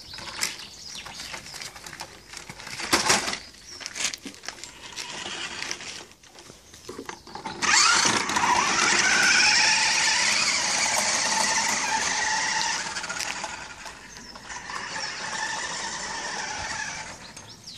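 Remote-controlled toy monster truck's small electric motor and gearbox whining as it drives, loud and high-pitched from about eight seconds in for around five seconds, then quieter. Before that, scattered knocks and clicks.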